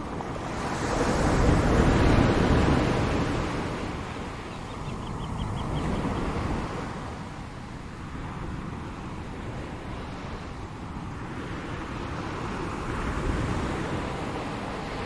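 Ocean surf washing in and out, an even rush that swells and fades. The biggest wave is about two seconds in, with smaller ones around six and thirteen seconds.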